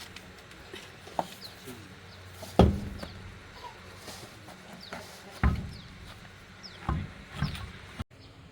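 A few irregular knocks and clunks, as of tools or parts being handled, the loudest about two and a half seconds in, with small birds chirping in the background.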